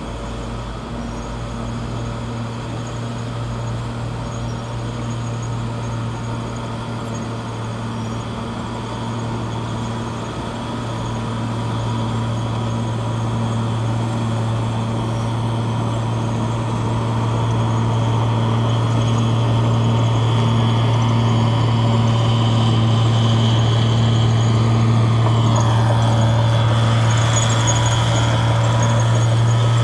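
Bulldozer's diesel engine running steadily, a deep even hum that grows louder partway through and then holds.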